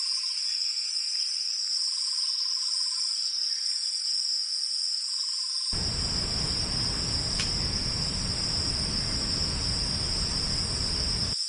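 Steady high-pitched insect chorus, a continuous chirring with no breaks. About halfway through a low rushing noise joins it and stops abruptly just before the end.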